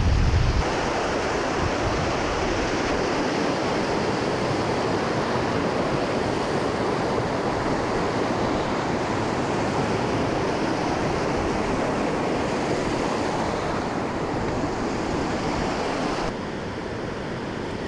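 Steady rushing of mountain water, a waterfall or fast stream, with no break in it; it drops a little quieter near the end.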